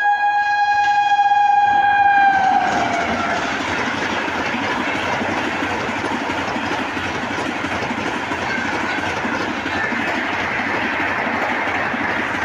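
A train's horn sounds one long held note that drops in pitch about two and a half seconds in as the locomotive passes, then the steady clatter and rumble of the train running through the station without stopping.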